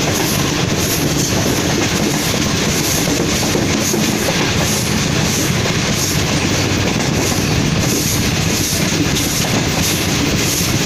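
Sir Syed Express passenger train running along the track, heard from aboard an open coach: steady wheel-on-rail noise.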